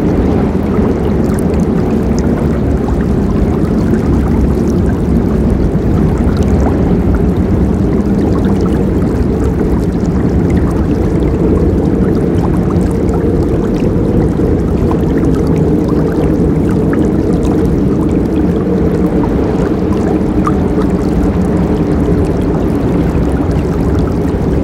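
Forest river flowing steadily, a low, full rush of water with little hiss.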